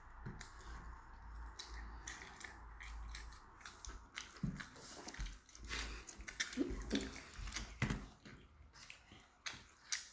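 Close-up chewing and biting of pizza: crisp crunches of the crust and wet mouth sounds, in quick irregular clicks.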